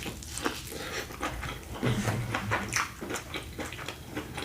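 Close-miked chewing of food, with frequent irregular mouth clicks and smacks.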